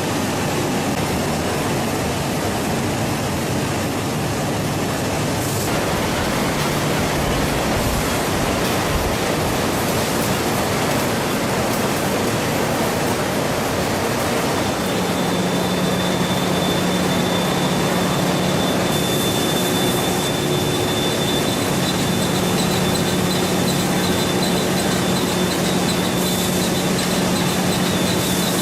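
Steady, loud running noise of processing-plant machinery, with a low hum and a thin high whine joining about halfway through.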